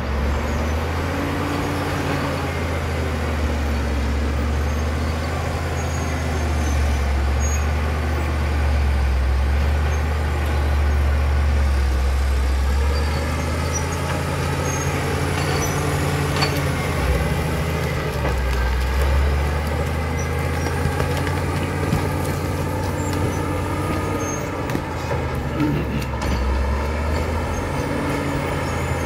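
Caterpillar D7 bulldozer's diesel engine running steadily, its pitch rising and falling a little with the load, with a few brief knocks.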